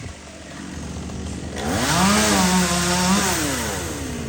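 Two-stroke chainsaw idling, then revved up to full throttle about one and a half seconds in, held briefly and let drop back toward idle near the end.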